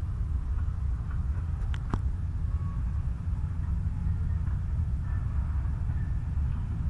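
Low, steady rumble of a train pulling into a rail yard, with a brief sharp click about two seconds in.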